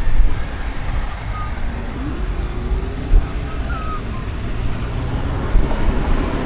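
City street traffic noise: a steady wash of passing vehicles with a heavy, uneven low rumble.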